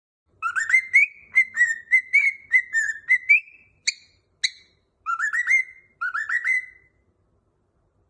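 Cockatiel whistling a tune: a quick run of short rising whistled notes, two sharp chirps about four seconds in, then two more short runs of rising notes.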